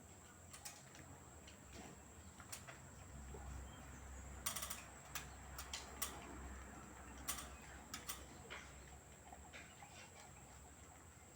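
LG direct-drive washing machine mid-wash on a cotton cycle: a low hum that swells for a few seconds as the drum turns, with scattered light clicks and ticks.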